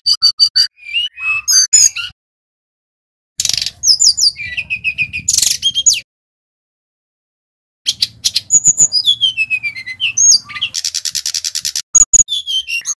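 Brown-chested jungle flycatcher singing in three bouts of high whistles, rapid trills and downward-sliding slurred notes. The bouts stop abruptly, with silent gaps of about one and a half to two seconds between them.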